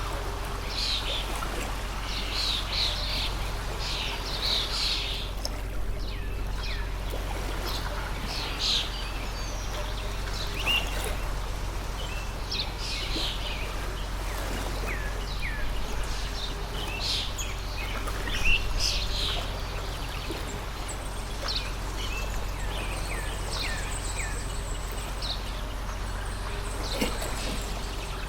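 Water stream flowing steadily while small birds chirp repeatedly over it, with a constant low rumble underneath. A single brief sharp knock about two-thirds of the way through.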